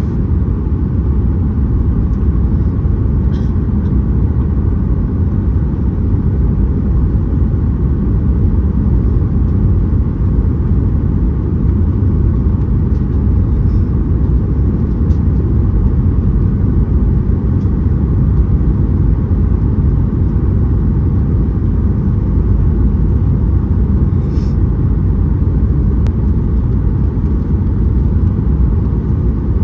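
Steady low rumble of a Boeing 737-800 heard inside the cabin during the landing approach: airflow and engine noise, with a couple of faint clicks.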